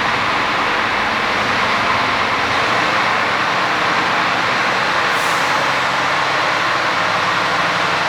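DAF CF460 tipper's PACCAR MX-13 straight-six diesel idling steadily, with a brief hiss of air about five seconds in.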